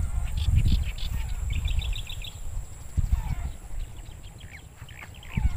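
Small birds chirping, with a quick trill of about six short notes a little under two seconds in, over a low, uneven rumble.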